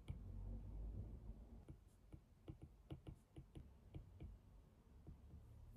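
Faint, irregular small clicks and taps, a few a second, over a quiet room hum.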